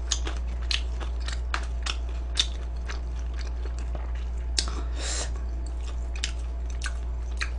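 A person chewing crunchy food close to the microphone: irregular crisp crunches a couple of times a second, with a longer run of crunching about five seconds in.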